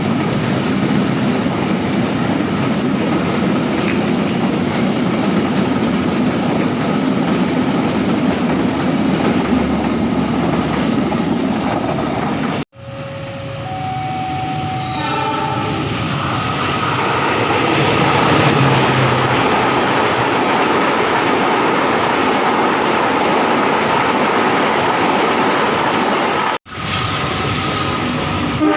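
Trains running through a station, wheels on the rails with a steady heavy rumble, in a few separate clips joined by two abrupt cuts. Just after the first cut come several short, steady tones at different pitches.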